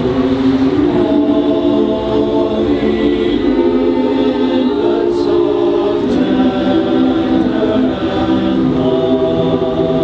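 Mixed community choir singing a slow Christmas piece, holding long sustained notes that change every second or two.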